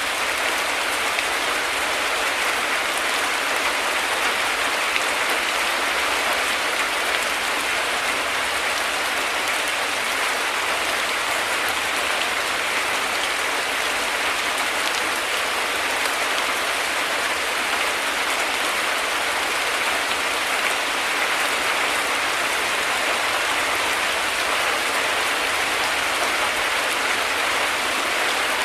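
Heavy rain falling steadily, a dense, even hiss of countless drops with no thunder and no change in strength.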